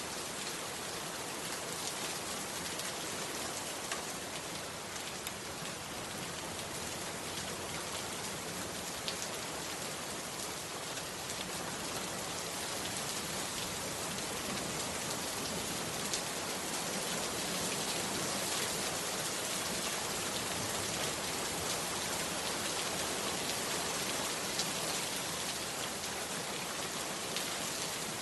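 Heavy rain falling steadily, with scattered sharper drop hits standing out from the even patter.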